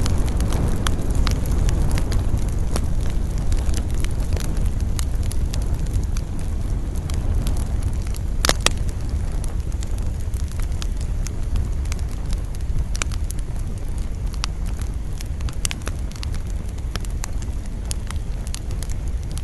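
Wood campfire crackling, with scattered sharp pops and one louder pop about eight and a half seconds in, over a steady low rush of wind.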